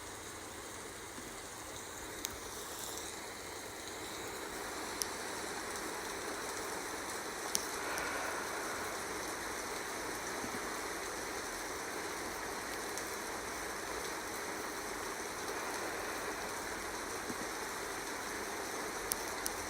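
Steady rain falling, with a few sharp isolated clicks of drops.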